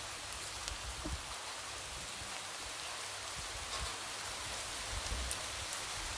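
Light rain falling steadily, a constant hiss with scattered drops tapping against a window.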